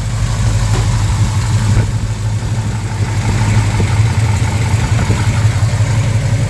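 Chevrolet 396 big-block V8 idling while its ignition timing is set to about 4 degrees before top dead center by turning the distributor.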